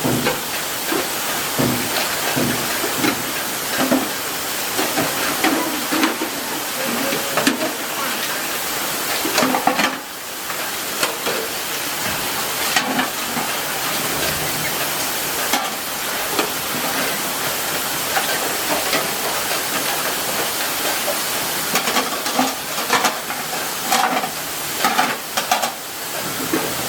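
Heavy rain falling steadily, a dense even hiss, with scattered sharp knocks and drips through it.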